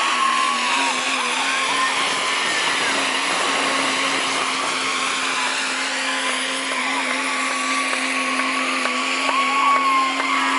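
Modified diesel pulling truck's engine running hard at high, steady revs during a truck pull, a loud continuous drone. Voices can be heard over the engine.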